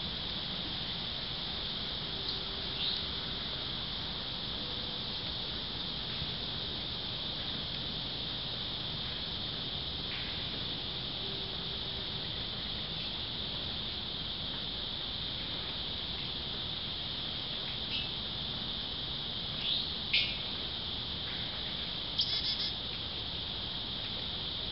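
Insects trilling steadily and high-pitched throughout, with a few short bird chirps from birds at a feeder, the loudest about two-thirds of the way through and near the end.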